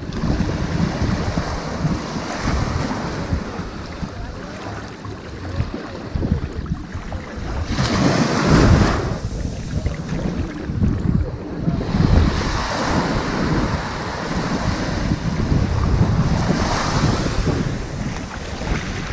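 Ocean surf breaking and washing up onto a sandy beach in a continuous wash. It swells in repeated surges, the loudest about eight seconds in and further ones near twelve and seventeen seconds.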